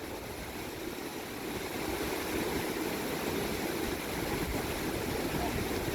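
Small river running high with monsoon floodwater: a steady, even rush of water.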